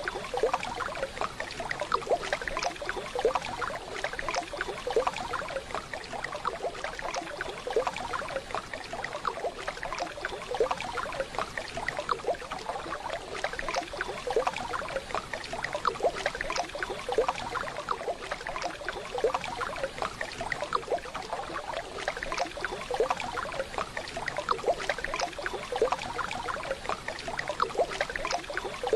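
Waterfall water running steadily, an even dense splashing and trickling that doesn't change.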